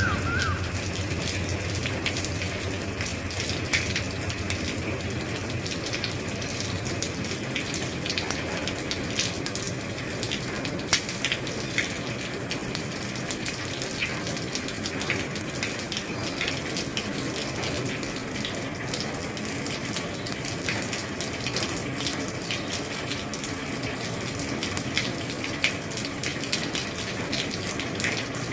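Steady rain falling on an old roof: a constant hiss dotted with many individual drops ticking and tapping. A thin, high steady tone sits over it and fades out about a third of the way through.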